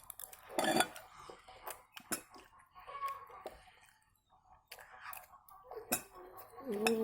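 A person chewing and eating telur balado (eggs in chili sauce), with irregular mouth clicks and clinks of cutlery on a dish. There is a short pause about four seconds in.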